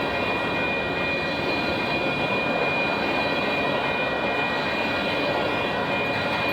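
Cars of a loaded Union Pacific grain train rolling past: a steady rumble of wheels on rail, with a steady high-pitched ring over it.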